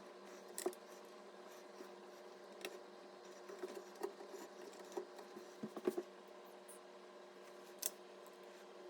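Faint, scattered clicks and taps of computer parts being handled during assembly, over a steady hum. A cluster of sharper clicks comes about six seconds in.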